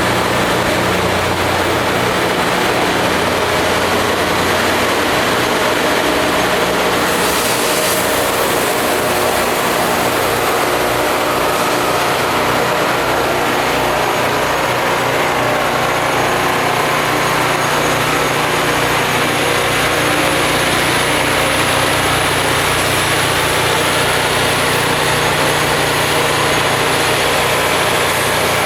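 Rail grinding machine running: a steady, loud heavy-engine drone with a constant hiss over it.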